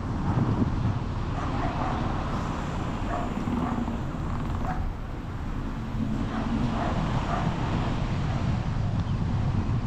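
Steady low rumble of vehicle and wind noise, with an animal giving several short calls from about a second and a half in.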